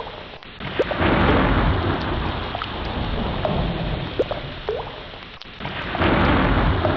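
Ocean water ambience: a rushing noise that ebbs twice and swells back like surging water, with short rising blips scattered through it.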